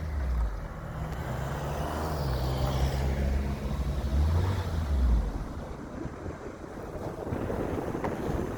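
Car running, heard from inside the cabin: a low engine hum over road noise, which drops away about five seconds in.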